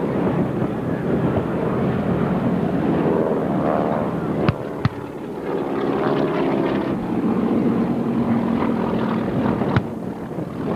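An engine passing by, its pitch shifting as it goes, over steady wind noise, with a few sharp clicks.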